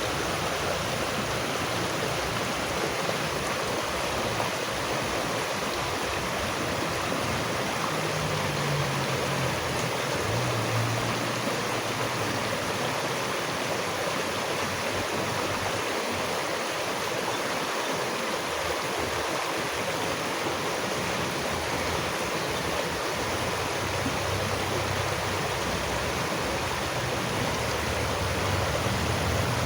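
Running water rushing steadily, as of a stream, with no breaks or single splashes.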